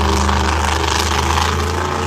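Monster truck engine running steadily at low revs, a deep even note that holds its pitch.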